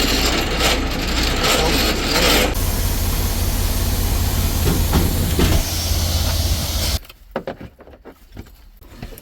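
Semi-truck diesel engine running with a steady low rumble and hiss, cutting off abruptly about seven seconds in.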